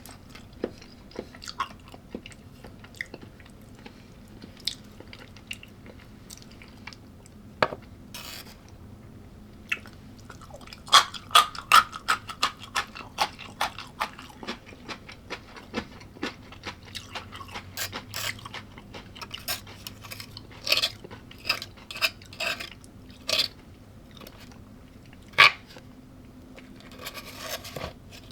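A person biting and chewing crunchy food close to the microphone. Scattered light clicks and small bites for the first ten seconds or so, then a loud run of crisp crunching about eleven seconds in, with irregular crunches and clicks continuing after.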